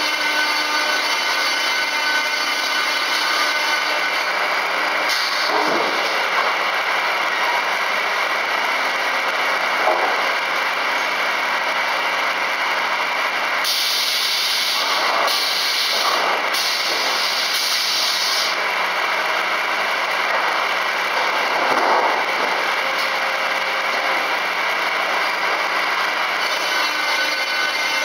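Double-arbor circular sawmill running with a steady mechanical drone and several held tones under a hiss. A brighter, sharper hiss comes and goes for a few seconds in the middle.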